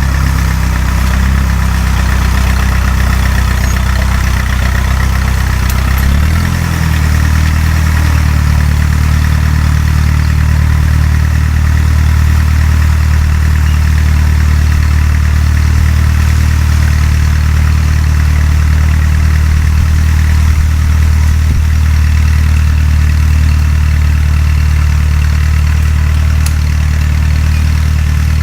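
Fiat 352c tractor engine running steadily while ploughing; its pitch drops slightly about six seconds in, then holds steady.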